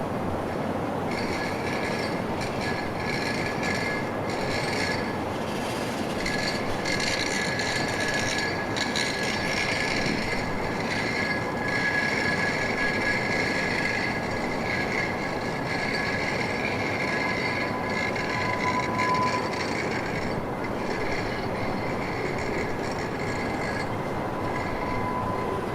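CSX freight train rolling past, its cars making a steady rumble while the wheels squeal continuously in high steady tones.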